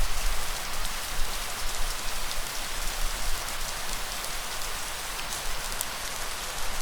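Steady rain falling: an even hiss with scattered sharper drop ticks over a low rumble. The rumble eases off after the first second or so and returns near the end.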